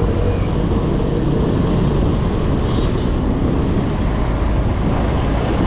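Steady wind rumble on the microphone of a moving bicycle, mixed with road traffic noise.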